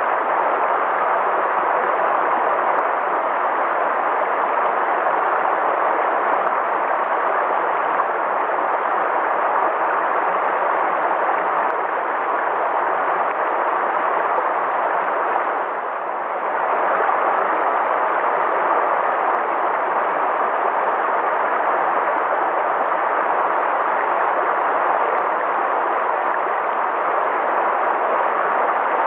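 River water flowing in a steady rush, briefly softer about halfway through.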